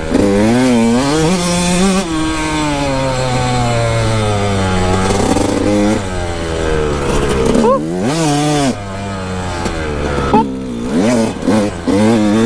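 Kawasaki KX125 two-stroke dirt bike engine revving under throttle, its pitch rising and falling as the rider rides. Twice in the second half the revs drop sharply and climb again.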